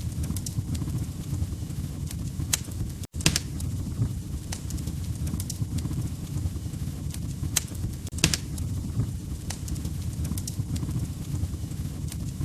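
Wood fire crackling in a fireplace: a steady low rumble of flames with sharp, irregular pops and snaps from the burning logs. The sound cuts out completely for a split second about three seconds in.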